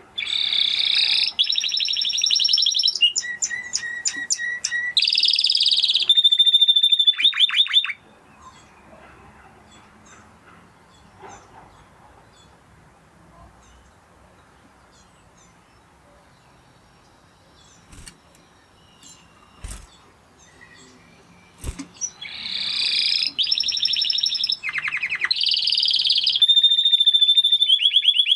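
Spanish Timbrado canary singing fast trills and rolls in two long song phrases. The first lasts about eight seconds, and the second starts about two-thirds of the way through and runs on. Between them is a quiet stretch with a few faint clicks.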